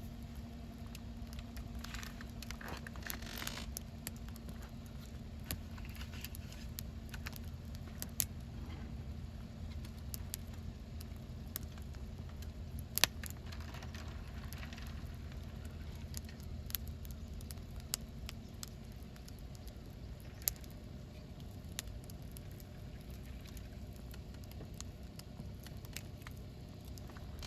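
Wood campfire crackling, with scattered sharp pops over a low steady rumble; the loudest pop comes about 13 seconds in.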